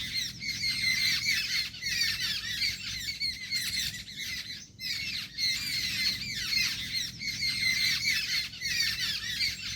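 A flock of jungle babblers chattering: many harsh, squeaky calls overlapping without a break.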